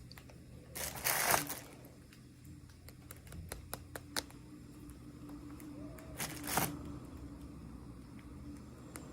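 Hands handling small toy packaging: two brief rustles, about a second in and about six seconds in, with scattered small clicks and taps between them.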